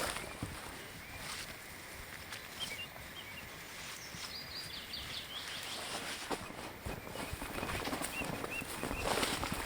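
Outdoor woodland ambience with a few faint, short bird chirps and a brief high warbling phrase, over scattered soft knocks and rustles that grow louder near the end.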